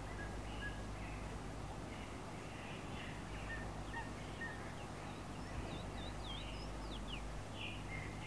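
Faint small-bird calls: short whistled notes, then quick sliding chirps in the second half, over a steady low hum.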